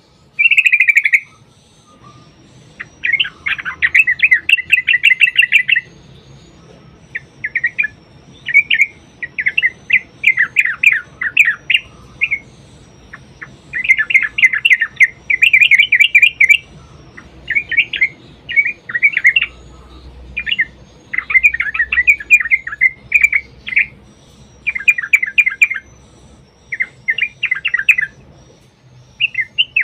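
Yellow-vented bulbul (trucuk) singing: loud, rapid, bubbly chattering phrases, one after another with short pauses.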